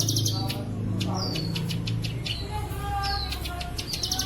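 Bird-song training recording of the 'bren cililin' type: fast pulsing buzzy trills alternating with short falling whistles, repeated over and over, over a steady low hum.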